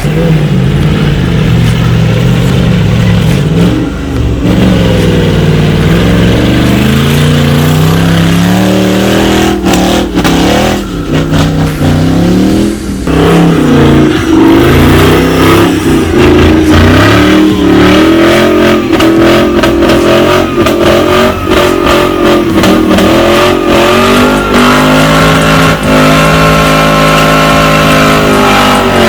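Off-road 4x4 competition vehicle's engine revving hard again and again, its pitch climbing and dropping repeatedly, loud and close, with scattered knocks among it.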